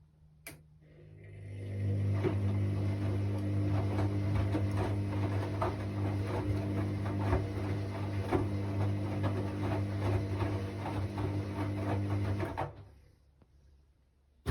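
Hoover washing machine mid-cycle: a click, then its motor starts up over about a second and runs with a steady hum and a patter of small knocks and rattles. It stops near the end.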